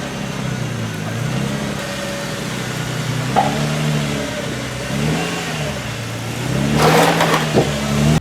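Car engine revving up and down repeatedly while drifting, the pitch climbing and falling several times. A loud rushing burst of noise, likely tyre noise, comes near the end.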